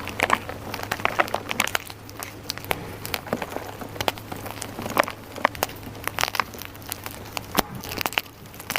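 Dyed gym chalk being crushed and crumbled, giving an irregular run of crisp crunches and crackles.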